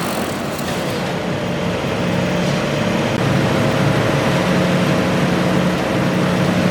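Garden tractor engine running steadily at a fairly constant speed.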